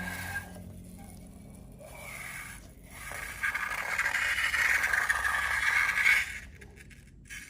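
Scraping and rustling of slime-making materials being worked by hand. It is faint at first, grows fuller from about three and a half seconds in, and stops shortly before the end.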